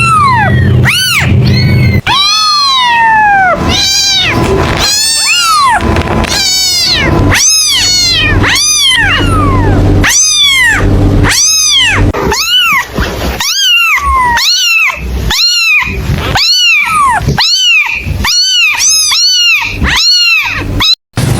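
Kitten meowing over and over, high-pitched meows at about one a second, each rising and then falling in pitch.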